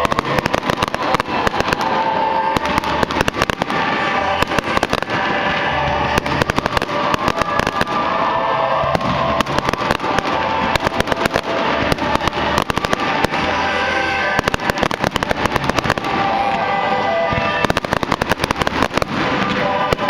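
Fireworks display: a dense, continuous run of bangs and crackles, with music playing alongside.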